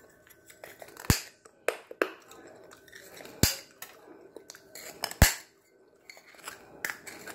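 Hard bites into a shard of baked clay (terracotta) pot: about six sharp, crisp crunches spread over the seconds, the loudest about a second in and about five seconds in, with quieter chewing of the gritty pieces between them.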